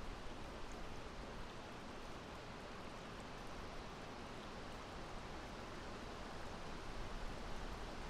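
Steady wind, an even rushing hiss without gusts or distinct events, growing slightly louder near the end.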